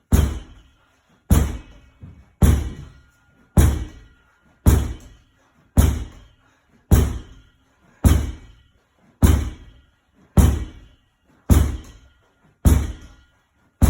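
A ball thudding against a wall in a steady rhythm, about one heavy hit every second, each echoing briefly: repetitions of a wall ball challenge.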